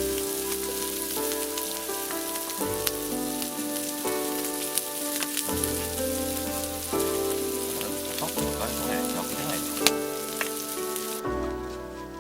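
Sizzling with small sharp crackles, from cooking over a campfire, under soft background music of held notes that change every second or so. The sizzling cuts off abruptly near the end.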